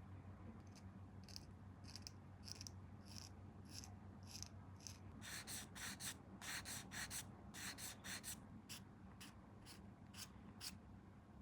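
Short rubbing strokes on a small plastic kit part, about two a second, coming louder and closer together for a few seconds in the middle, over a steady low hum.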